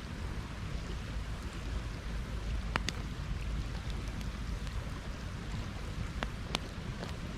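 Campfire burning with a steady hiss and low rumble, broken by a few sharp crackling pops, the loudest about three seconds in and again near the end.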